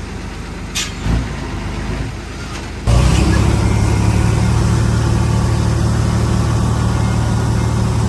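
Heavy diesel machinery engine running steadily, with a couple of short knocks about a second in. Just under three seconds in, the sound jumps abruptly to a much louder, deeper engine drone that holds steady.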